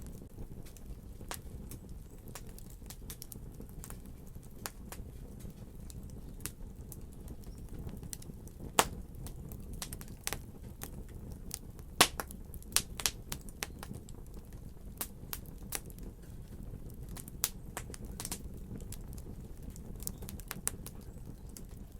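Wood fire crackling in a fireplace: irregular sharp pops and snaps over a low, steady rumble of flame, with the loudest pops about nine and twelve seconds in and a quick run of snaps just after.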